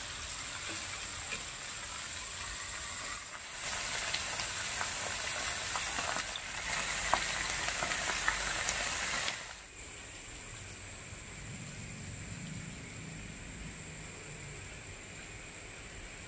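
Eggplant and lemon basil stir-fry sizzling in a wok as a metal utensil stirs it, with a few light clicks of metal on the pan. The sizzle grows louder about three and a half seconds in and drops suddenly about nine seconds in, leaving a quieter hiss.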